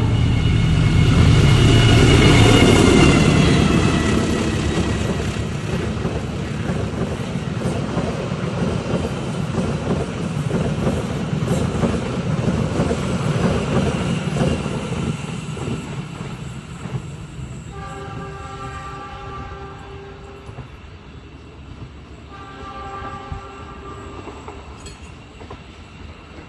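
A train passing close by: its rumble and rattle is loudest in the first few seconds, then slowly fades as it moves away. The horn sounds two blasts later on, each lasting two to three seconds.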